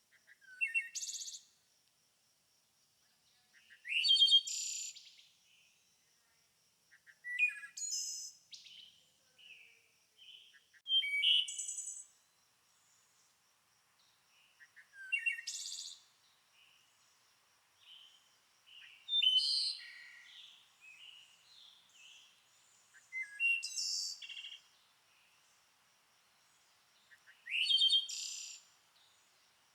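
A songbird singing short, high, varied phrases, each about a second long, repeated roughly every three to four seconds with quiet pauses between.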